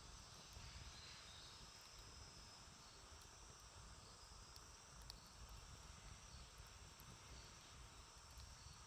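Faint outdoor wood campfire with a few scattered soft crackles over a steady high insect chirring.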